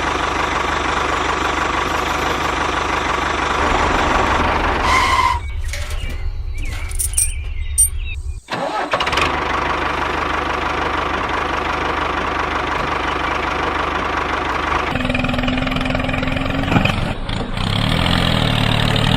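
Tractor engine running steadily, with the sound cutting out abruptly for a moment about halfway through and shifting in character near the end.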